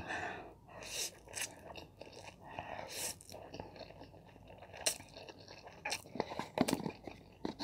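A person slurping in and chewing a mouthful of Samyang Buldak spicy stir-fried instant noodles close to the microphone, with irregular wet smacks and clicks of the mouth.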